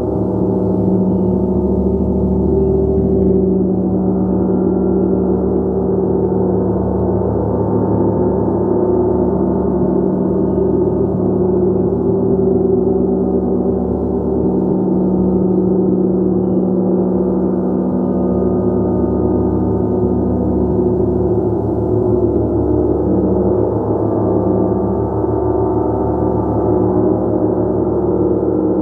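Gong played continuously, a dense, sustained wash of many overlapping tones that shimmers at an even level without pause.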